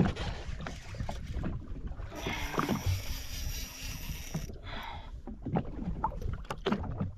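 Water slapping and washing against the hull of a drifting Sea-Doo jet ski, with irregular splashes. A steady hiss rises about two seconds in and stops a couple of seconds later.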